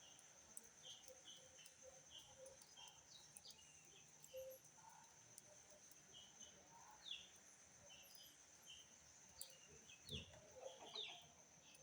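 Small songbird giving faint, short chirps in quick series, with a few quick falling notes later on. A few soft knocks near the end.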